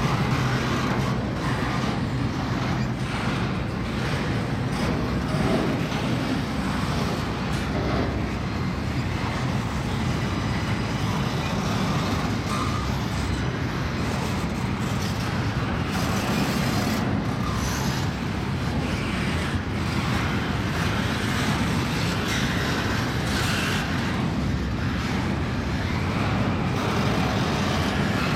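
Double-stack intermodal freight train rolling past close by: a steady rumble of steel wheels on rail, with scattered clanks from the passing well cars.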